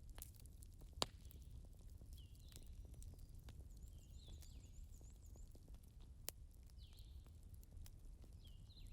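Faint crackle of burning candles: sparse small ticks and a few sharp pops, the loudest about a second in and another near six seconds, over a low steady rumble. High repeated chirps sound in the background.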